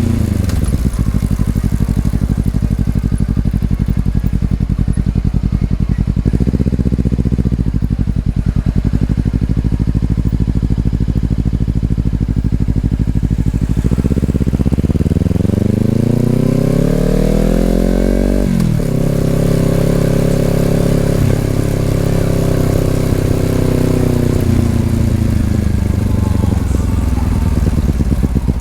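Honda CBR250RR parallel-twin through an Over Racing aftermarket exhaust. It idles with a brief throttle blip, then revs climb steadily for a few seconds about halfway through and drop sharply at an upshift. It holds steady and then slows with falling revs near the end.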